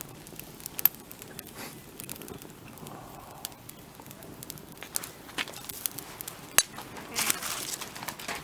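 Wood fire crackling, with scattered snaps and two loud sharp pops, and a denser stretch of crackling near the end.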